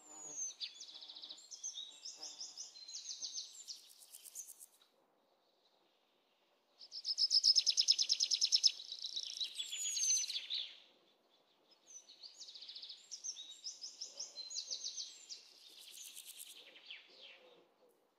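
Songbird singing in rapid, high trilled phrases with short whistled glides, in three bouts separated by pauses of a second or two.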